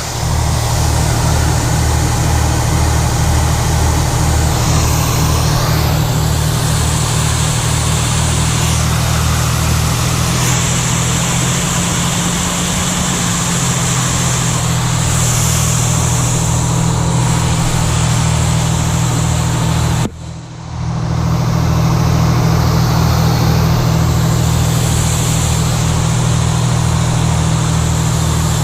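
The Detroit Diesel two-stroke engine of a 1980 Howe fire truck running steadily with a pulsing low rumble. The sound briefly cuts out for under a second about two-thirds of the way through.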